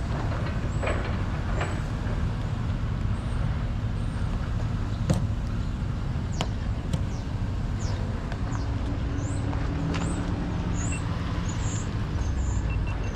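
Vehicle engine idling, a steady low rumble, with a few small clicks and short high chirps over it.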